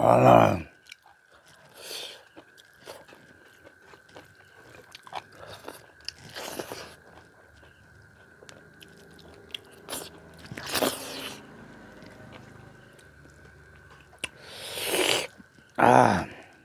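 Close-up eating sounds of a person chewing mouthfuls of rice and chicken chilli, with half a dozen louder mouth sounds a few seconds apart.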